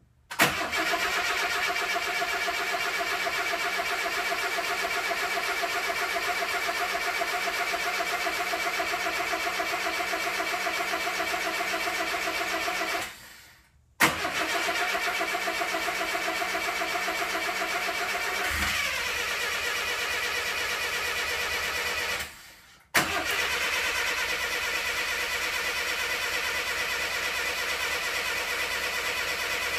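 1962 Mercedes-Benz 180c Ponton's starter motor cranking its four-cylinder petrol engine in three long bursts, each starting with a click. The engine turns over steadily but does not catch: a crank-no-start.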